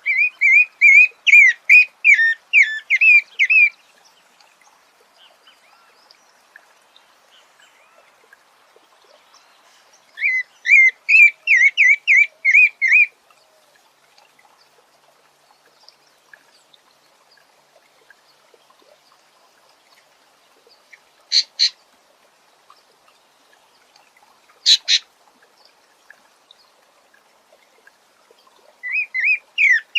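Sabiá singing: three phrases of rapid, warbled whistled notes, one at the start, one about ten seconds in and one just before the end, with long pauses between. Two short, sharp double clicks come in the quiet gap, about twenty-one and twenty-five seconds in.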